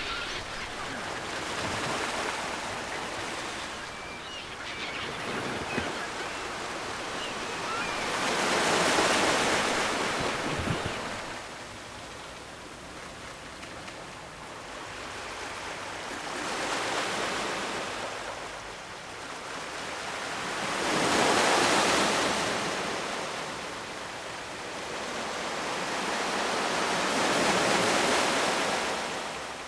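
Ocean waves breaking and washing up the shore, the surf swelling and fading in slow surges about five times.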